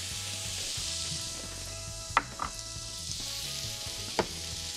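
Freekeh with onion, garlic, carrots and celery sizzling in oil in a pot, with a few sharp clicks about halfway through and near the end.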